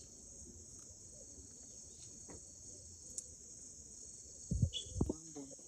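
Insects, likely crickets, shrilling in a steady high-pitched chorus, with two short low thumps near the end.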